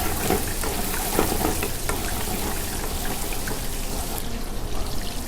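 Chicken koftas sizzling as they brown in hot oil in a frying pan, a steady frying hiss dotted with small crackles.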